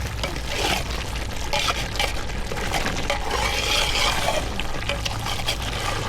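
Water splashing steadily, a continuous hiss with scattered small clicks and knocks, over a low steady hum.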